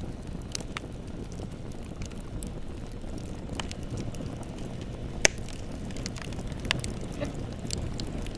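Bonfire burning with a steady low rumble and scattered crackles and pops, one pop about five seconds in louder than the rest.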